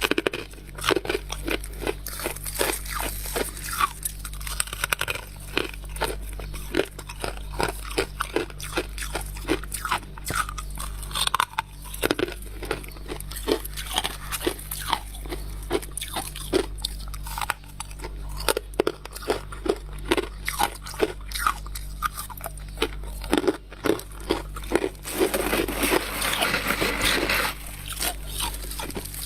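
Close-up crunching and chewing of freezer frost: many quick, irregular bites and crunches, with a denser, continuous stretch of crunching about 25 seconds in. A steady low hum sits underneath.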